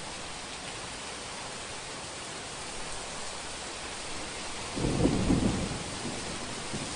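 Steady rain falling, with a sudden clap of thunder about five seconds in that rumbles low and loud for about a second and a half before fading back under the rain.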